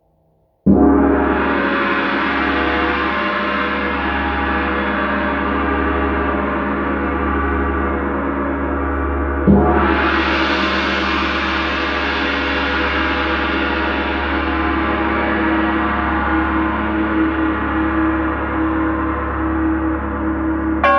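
A gong struck twice, about nine seconds apart, each stroke ringing on in a long wash of overtones that swells and slowly fades.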